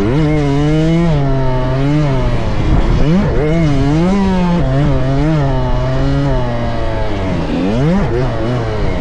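Small dirt bike engine revving up and down over and over as the rider works the throttle through the track. Its pitch climbs sharply at the start, again about three seconds in and near the end, over a steady lower drone.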